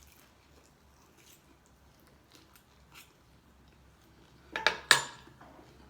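Tableware clinking: a quick cluster of sharp clinks of a utensil against a dish about four and a half seconds in, after a stretch of faint small ticks.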